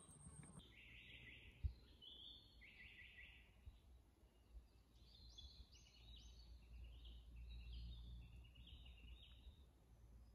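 Faint birdsong in woodland: small birds give short, high trilled phrases, one after another. One soft knock comes about one and a half seconds in, over a faint low rumble.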